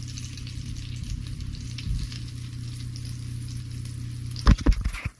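Potato pancakes frying in hot fat in a pan, a steady sizzle. Near the end there is a quick cluster of loud knocks, the loudest sound here.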